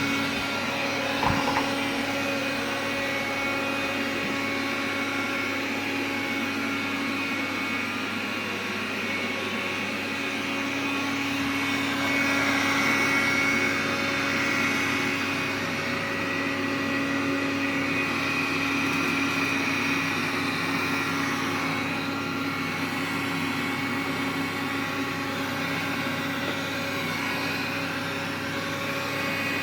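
Xiaomi vacuum cleaner running with a steady motor hum and whine, brought out to show an extraneous noise. It grows louder for a few seconds around the middle, with a brief knock about a second in.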